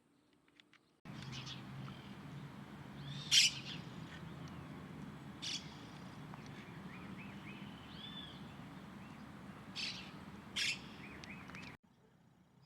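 Birds calling: many soft, short chirping notes over a steady background hiss, cut through by four brief, sharp, louder sounds, the loudest about three seconds in. The sound starts abruptly about a second in and cuts off shortly before the end.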